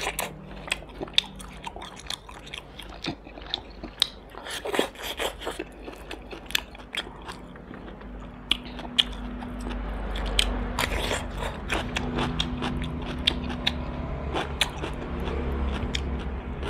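Close-miked chewing and crunching of roast duck: many short, crisp bites and mouth clicks at an irregular pace. A low steady hum joins about halfway through.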